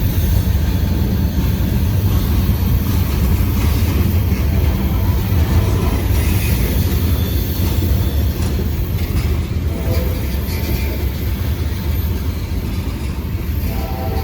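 Norfolk Southern mixed freight train's cars rolling past, a loud, steady low rumble of steel wheels on rail.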